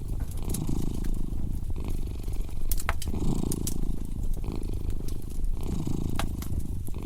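A cat purring steadily, the purr swelling and easing in phrases every two to three seconds with its breathing. Sharp crackles and pops from a fireplace fire are scattered through.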